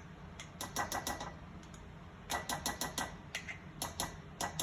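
Chicken pieces coated in cornstarch frying in avocado and sesame oil in a lidded pan, giving off irregular sharp pops and crackles that come in small clusters.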